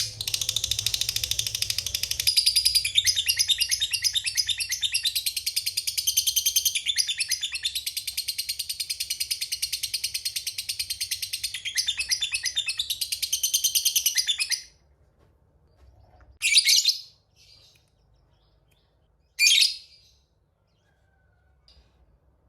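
Lovebird singing a long, unbroken 'ngekek' chatter: a shrill, rapid string of repeated notes lasting about fifteen seconds, the long ngekek prized in fighter lovebirds. It stops suddenly and is followed by two short single calls.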